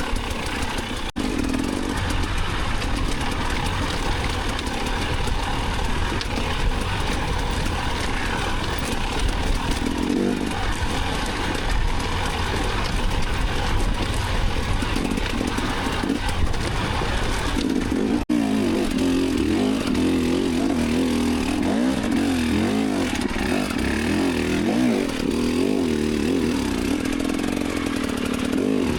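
Enduro dirt bike engine running under the rider, its pitch rising and falling as the throttle is worked on a trail ride. The sound drops out briefly twice, about a second in and about eighteen seconds in.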